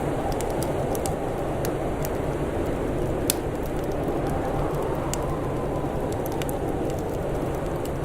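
Wood fire crackling with scattered sharp pops, one louder pop about three seconds in, over a steady low rush of winter wind that faintly howls, rising and falling, about five seconds in.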